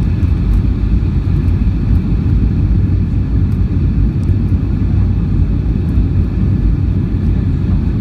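Boeing 757-200 cabin noise in flight: a steady, loud low rumble of the engines and airflow, with a faint steady whine above it.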